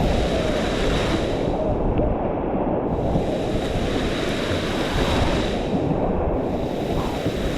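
Steady rush of river water around a raft, with no distinct knocks or splashes.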